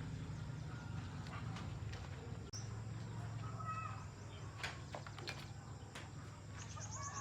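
Faint short bird chirps and scattered clicks over a steady low hum.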